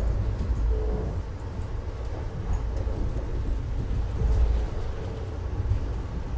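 Steady low rumble of a passenger train running along the track, heard from inside the car, with faint ticks over it.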